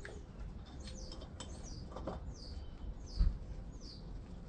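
A bird calling a run of short, high chirps, each falling in pitch, about two a second. A few clinks and one dull knock about three seconds in come from hand work in a truck's engine bay.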